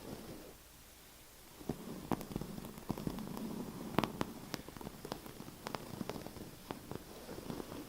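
Tapping and scratching on a surface: irregular sharp taps, a few of them louder, over a dry scratching sound, with a brief lull about half a second to a second and a half in.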